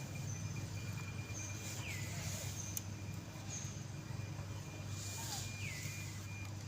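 Outdoor ambience: a steady low hum with a thin steady high tone, short high chirps, and two brief falling calls, about two seconds in and near the end.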